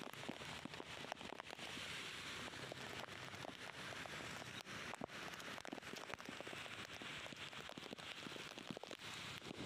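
Steady rain falling, a continuous hiss dotted with many small drop hits.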